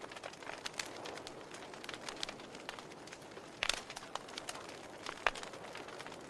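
Wood fire burning in a fireplace: irregular crackles and pops over a soft hiss, with two louder pops, one just under four seconds in and one about five seconds in.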